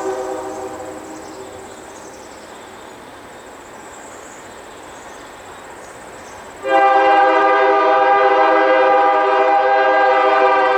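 Locomotive horn blowing: one blast fades away in the first second or two, then after a few seconds of quieter background a long, steady blast starts abruptly about seven seconds in and holds.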